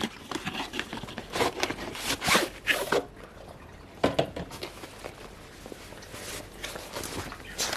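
Zip on a fabric carry bag being pulled open in several short rasps, with the bag's fabric handled between them.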